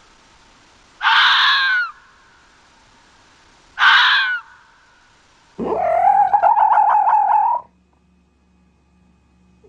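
Red fox calls: two short calls about three seconds apart, then a longer, lower call lasting about two seconds that pulses in loudness.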